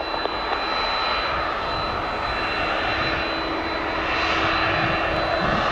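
Jet airliner engines running with a steady rushing noise and a faint thin whine above it.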